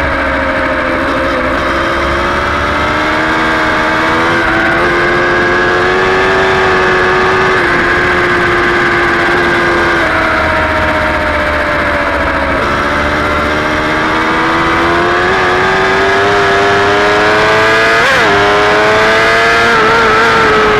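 Superbike engine at racing speed, picked up by an onboard camera. Its pitch climbs slowly for several seconds at a time, with a few short drops, and there is one quick sharp blip about 18 seconds in.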